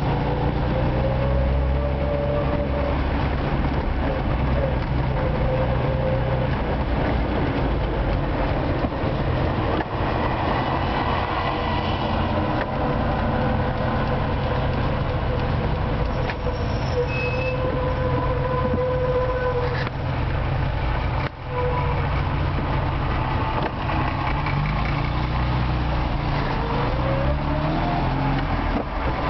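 Retro Moskvich car's engine and drivetrain running while driving, heard from inside the cabin. Its whine rises in pitch as the car accelerates near the end.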